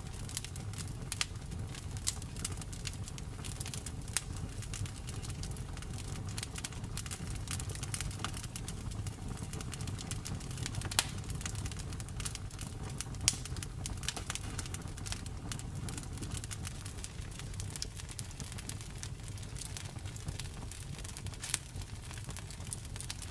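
Wood fire in a fireplace crackling: frequent small snaps and pops, a few of them louder, over a steady low rumble.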